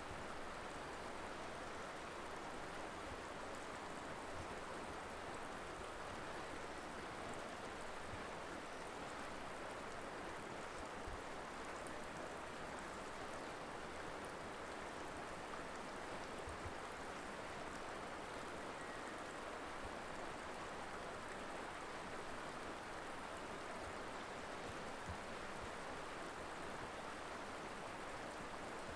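The Colorado River flowing: a steady rush of running water with no change.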